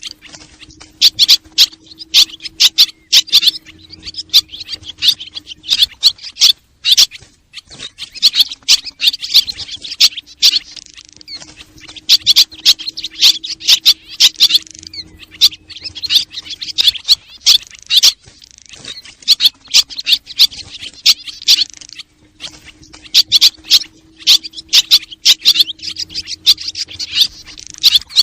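Swallow lure call: rapid high chirps and twitters in bursts of a few seconds with short gaps, over a faint steady low hum, repeating like a loop.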